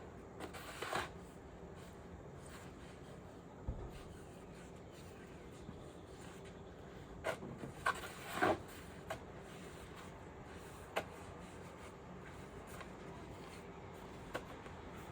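Snow shovel scraping and scooping snow in a few separate strokes, the strongest a little past the middle, over a steady low background.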